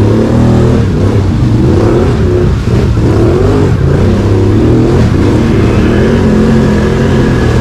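Can-Am Outlander ATV's V-twin engine running, its pitch rising and falling as the throttle is worked.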